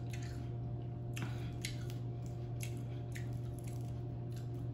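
Close-miked chewing of crunchy raw sweet pepper: short, moist crunches about twice a second, over a steady low electrical hum.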